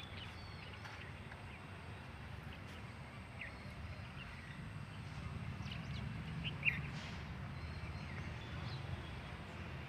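A few short, high bird chirps scattered over a faint, steady low rumble, one chirp clearer about two-thirds of the way through.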